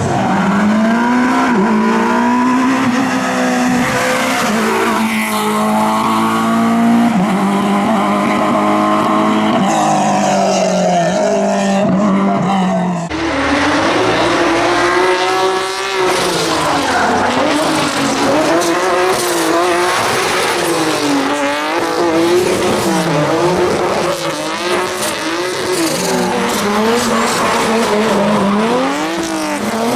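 Competition car engine running hard with tyres squealing. The engine note holds fairly steady at first, then after a sudden change about halfway it rises and falls again and again as the throttle is worked.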